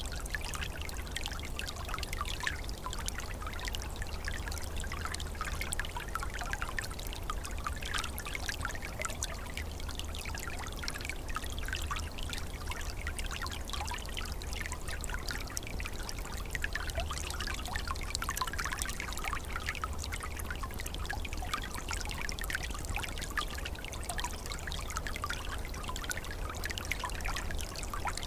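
Small forest stream flowing and trickling steadily over stones, with a bubbling, splashing patter and a low rumble underneath.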